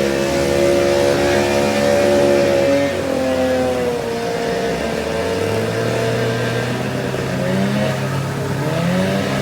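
An engine running steadily. Its pitch drops about three seconds in, then shifts up and down near the end.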